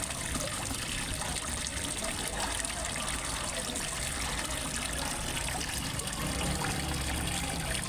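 Water trickling and splashing steadily into a fish pond, a continuous, even wash of water noise.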